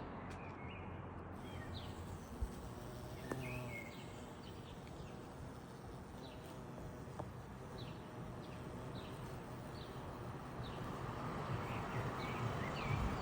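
Small birds chirping in short, repeated calls over a steady low background rumble of outdoor ambience.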